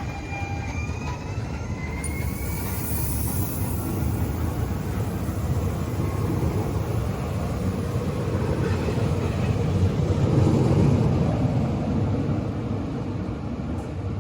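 Passenger train pulling out of the station: a faint whine rising in pitch in the first couple of seconds, then a low rumble that builds to its loudest about ten seconds in.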